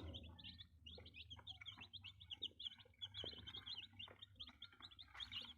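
A brood of Gimmizah chicks peeping: many short, high cheeps overlapping one another, faint, with a few soft taps among them.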